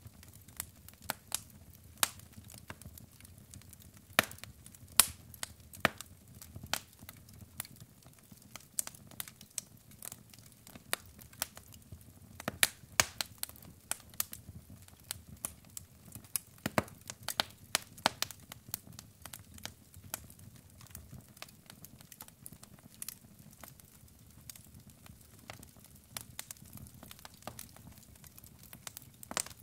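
Wood fire of burning logs crackling, with irregular sharp pops and snaps over a soft low rumble of flames.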